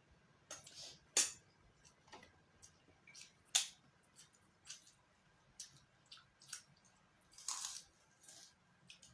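Eating noises close to the microphone: irregular soft clicks and crackles of chewing and mouth sounds, with sharper clicks about a second in and about three and a half seconds in, and a longer crackle near the end.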